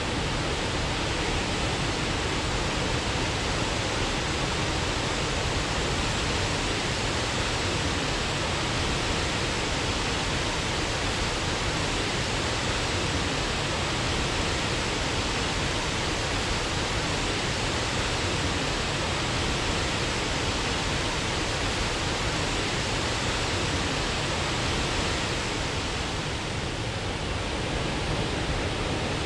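Waterfall rushing steadily, a dense, even hiss of falling water that eases off slightly near the end.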